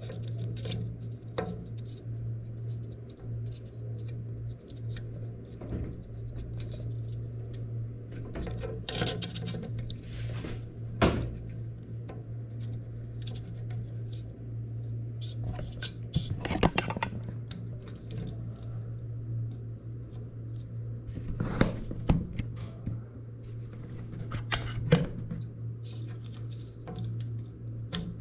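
Scattered clicks and knocks of parts and tools being handled during a washing-machine repair, over a steady low hum.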